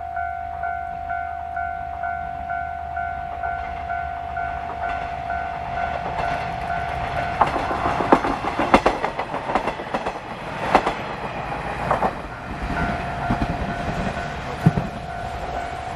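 Japanese level-crossing warning bell ringing in a steady repeating ding pattern while a diesel local train passes over the crossing. Its rumble builds from about four seconds in, then its wheels clack over the rail joints, loudest midway, and ease off near the end as the bell rings on.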